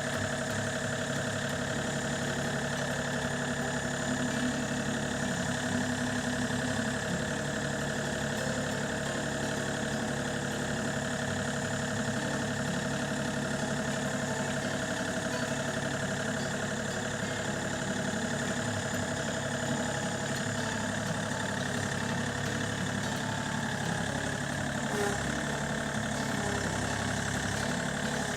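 A tractor engine running steadily at a constant speed, its even hum unbroken throughout.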